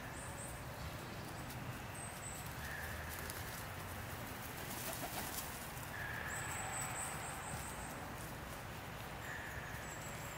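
Birds calling: short, steady, high whistled notes that come back every two or three seconds over a steady low background noise.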